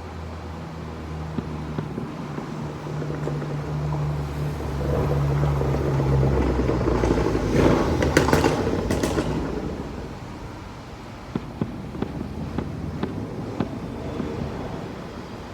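A vehicle passes outside: a low engine hum, then a swell of engine and road noise that peaks about halfway through and fades. Scattered sharp firework pops and bangs follow in the second half.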